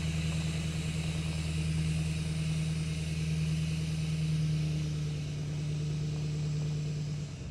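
Truck engine running steadily at a low, even hum.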